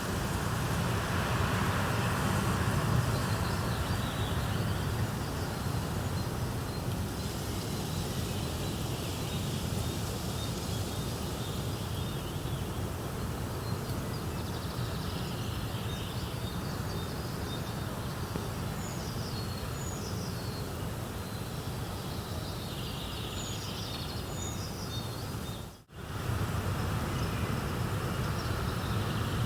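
A steady, even rushing noise with a few short, high, falling bird chirps about two-thirds of the way through. Near the end the sound drops out for a split second and comes straight back.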